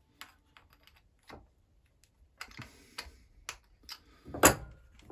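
Scattered small clicks and knocks of hand tools and small metal chainsaw piston parts being handled on a workbench, with one louder knock about four and a half seconds in.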